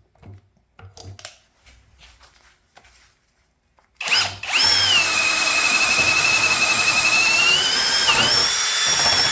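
Brushless cordless drill in low gear (speed 1) boring with a 7/8-inch bit: after a few light clicks, the motor starts about four seconds in and runs loud and steady with a high whine, which dips briefly under load near the end. On speed 2 the drill kept shutting off with this bit.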